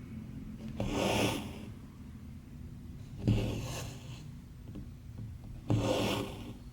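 Embroidery thread pulled through cross stitch fabric, rasping three times at an even pace about two and a half seconds apart, once per stitch.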